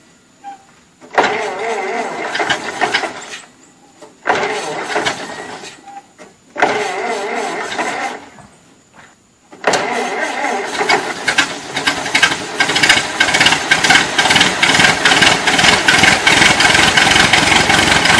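Cold engine being turned over in three short bursts with pauses between, then catching about halfway through and running, its firing beats quickening and growing louder.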